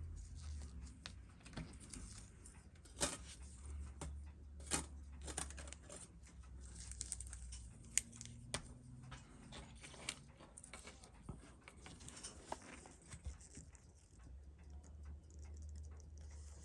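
Small metal tools tapping and clicking on watch parts during a watch teardown, in scattered sharp ticks with a few louder clicks, over a low hum that comes and goes.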